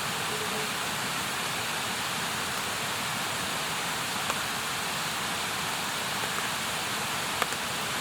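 Campfire giving a few sharp pops, the loudest near the end, over a steady rushing hiss.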